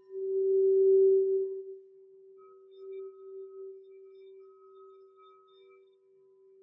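Singing bowl sounding one low, steady tone with faint higher overtones. It swells loudest in the first second and a half, then fades to a soft lingering ring.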